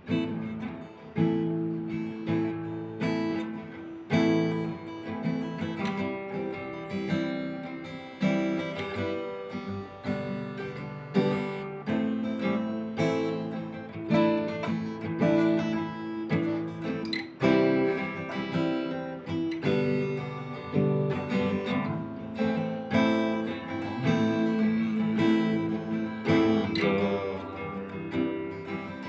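Acoustic guitar music, strummed and plucked chords with a steady rhythm.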